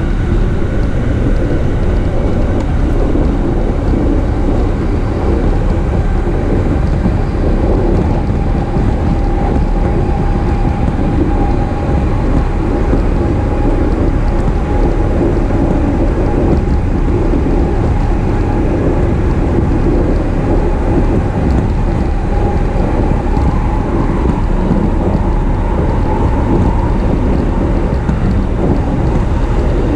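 E233 series electric commuter train running at speed, heard from inside the passenger car: a steady rumble of wheels on rail with a faint motor whine that rises a little near the end.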